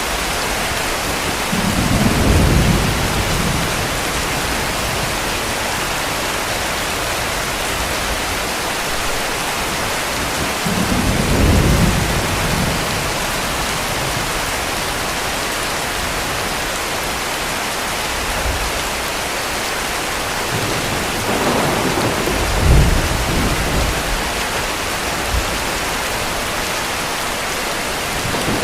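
Heavy rain falling steadily, with rumbles of thunder swelling up three times: about two seconds in, around eleven seconds, and a longer roll with a sharper crack a little past twenty seconds.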